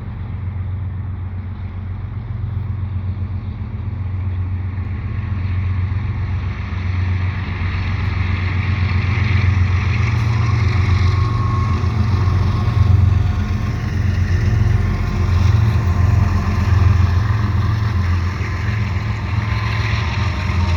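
The diesel engines of two GE ES44AC freight locomotives run under power, a deep steady rumble that grows louder as the train approaches.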